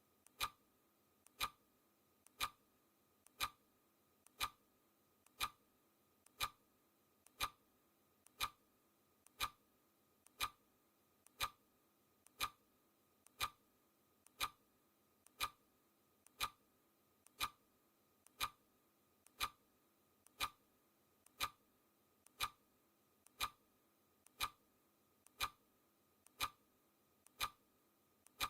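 Clock-style ticking sound effect of a countdown timer: an even, sharp tick once a second, steady throughout.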